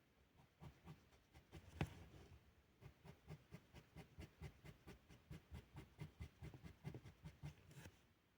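Felt-tip pen making quick short strokes on paper, faint, about three taps a second, with one sharper tap about two seconds in.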